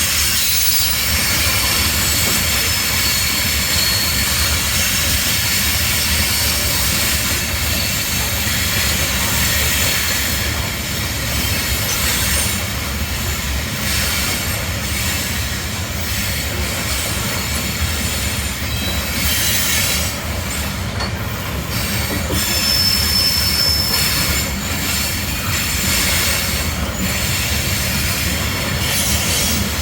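Train rolling slowly past at walking pace, a steady rumble of wheels on rail with a few short high-pitched wheel squeals, the clearest about two-thirds of the way in.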